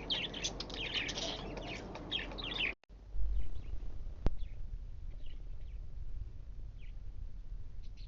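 Pet birds chirping busily with many overlapping short calls. After a sudden cut near the 3-second mark only a few faint chirps remain over a low rumble, with one sharp click.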